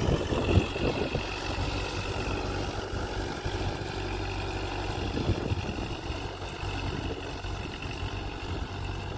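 Kubota MU4501 tractor's diesel engine running steadily with a low, even hum.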